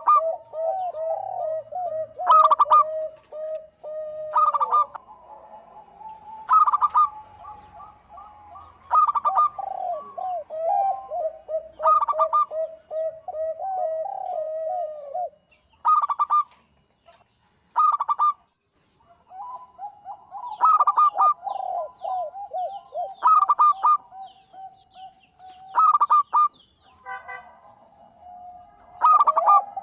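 Zebra dove (perkutut) cooing in full song: a rapid rolling coo, with short loud notes repeating about every two seconds. The rolling part drops out for a few seconds midway, while the loud notes continue.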